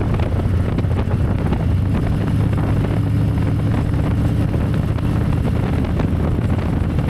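Harley-Davidson V-twin motorcycle running steadily at cruising speed, its low engine drone mixed with heavy wind noise on the rider's microphone.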